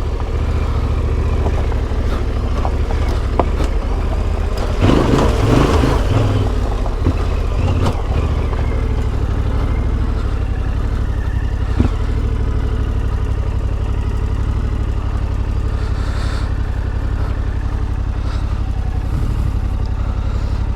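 Yamaha Ténéré 700's CP2 parallel-twin engine with an Akrapovič exhaust running steadily under way, with a rougher, noisier patch about five seconds in and a few sharp knocks scattered through.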